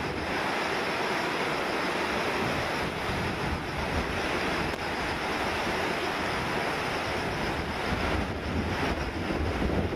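Steady rush of water in a river swollen by typhoon floodwater, with gusts of wind buffeting the microphone.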